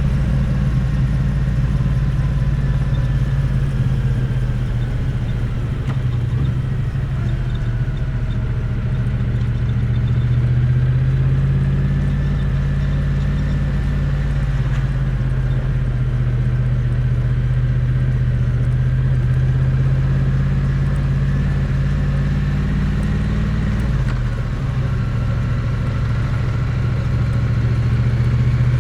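Triumph Bonneville T100's parallel-twin engine and exhaust running steadily, heard close to the exhaust. The note rises slightly about a third of the way in and drops and changes near the end.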